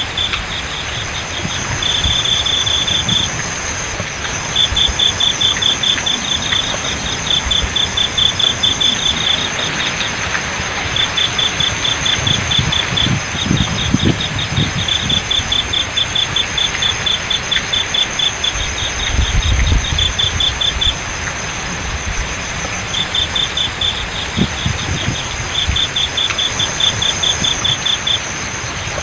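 Crickets chirping in repeated runs of rapid pulses, each run lasting a second or two, over a steady high insect drone and the continuous hiss of flowing water. A few low rumbles come in about halfway through.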